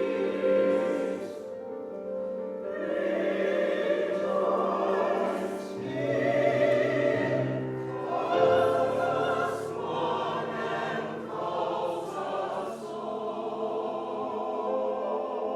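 Chancel choir singing a Christmas choral piece in sustained, changing chords, with consonants hissing through every second or two.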